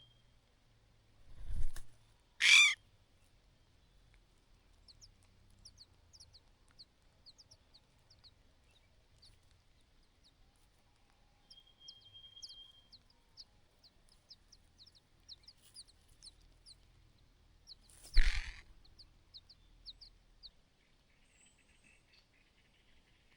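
Birds calling: a long run of short, high chirps, about three a second, with a brief steady high whistle twice. Two loud, short, noisy sounds stand out, one about two and a half seconds in and one about eighteen seconds in.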